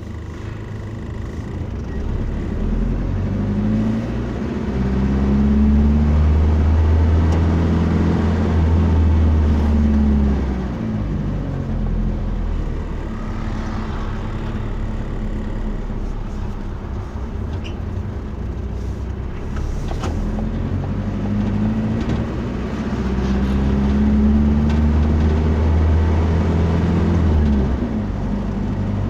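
Motor vehicle engine and road noise, the engine pitch climbing, holding, then dropping away twice.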